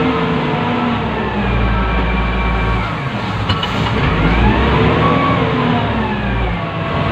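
Wheel loader's diesel engine heard from inside the operator's cab, its speed rising and falling as the machine works, with a deep rumble underneath.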